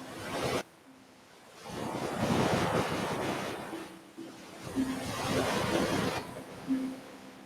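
Ocean waves breaking and washing up on a beach, two swells rising and falling.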